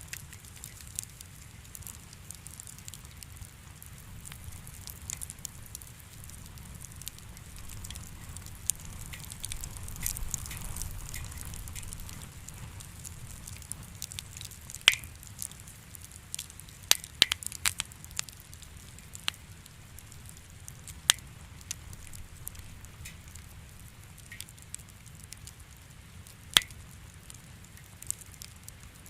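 Wood fire crackling in a fireplace: a steady low rumble and hiss of the flames with irregular sharp pops and snaps, a cluster of them about halfway through.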